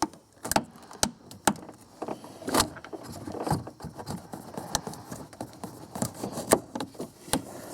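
Irregular light clicks, taps and rattles of hands and tools handling parts in a truck's engine bay around the plastic coolant reserve tank and its hoses.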